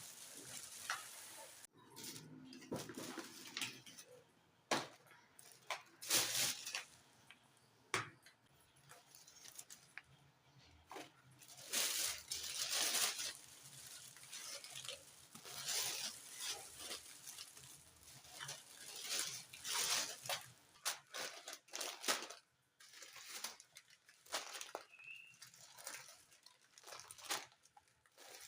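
Household handling sounds: irregular rustling and tearing of grocery packets with light taps and clinks of containers and kitchenware.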